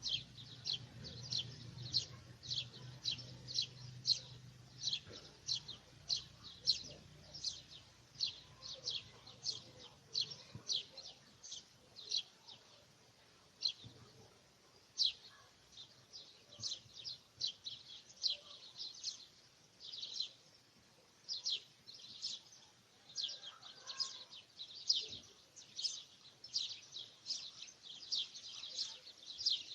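A bird chirping: short, high chirps repeated two or three times a second, with a brief lull about halfway through.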